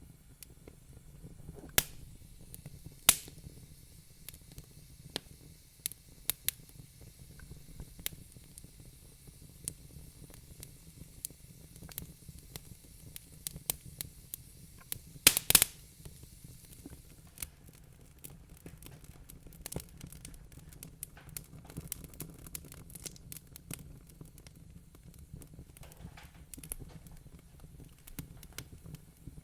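Wood fire crackling in a fireplace: irregular small crackles and ticks over a low steady hiss, with a few louder pops, the loudest about halfway through.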